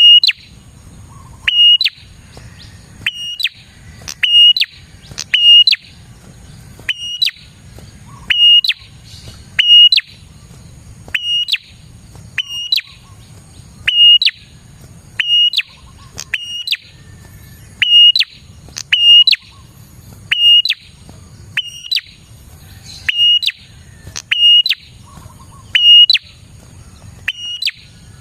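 Prenjak (prinia) calling the same short, sharp chirp over and over, about once a second. Each chirp is a quick upward flick into a brief steady high note.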